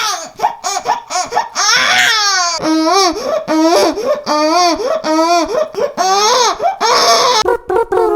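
Man's vocal impression of a baby, made with mouth and throat alone: a run of short, high-pitched squeals that swoop up and down in pitch and break off one after another.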